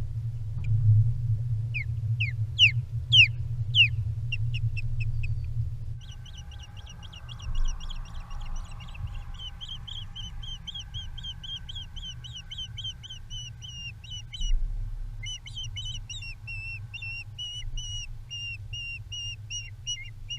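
Osprey calling: a few loud whistled calls in the first few seconds, then a long run of short, high repeated chirps, about four a second. A low wind rumble on the microphone is heavy for the first six seconds and lighter after.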